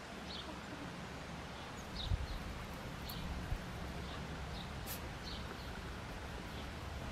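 Outdoor garden ambience: faint, short bird chirps scattered through it over a steady low background rumble, with a single sharp click about five seconds in.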